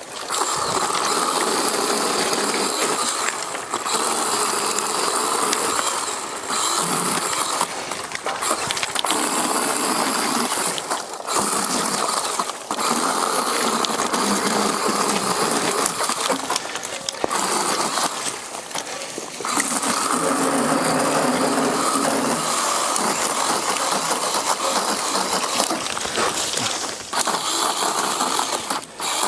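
Chainsaw cutting through brush and vines in repeated runs of a few seconds, its pitch shifting with load and easing off briefly between cuts.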